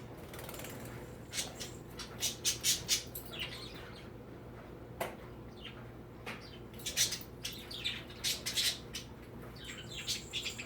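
Birds squawking and chirping in quick, sharp calls that come in two busy clusters, with a single sharp click about halfway through.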